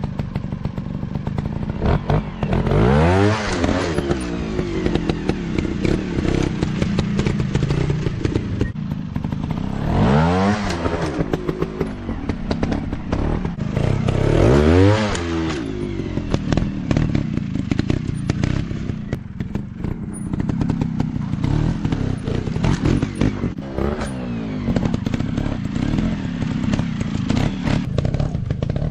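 Dirt bike engines running and revving, with three strong revs about three, ten and fifteen seconds in that rise and fall in pitch, and fainter ones later. Short clattering knocks run throughout.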